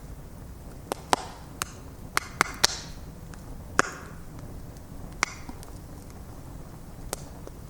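Wood crackling in a bonfire: about nine sharp pops, most of them bunched in the first four seconds, some with a brief hiss after. Under them runs the low, steady rumble of the flames.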